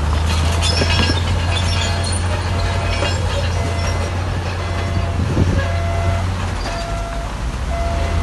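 A heavy earthmoving machine's diesel engine running with a low drone, its reversing alarm beeping about once a second, and scattered metallic clanks and squeals.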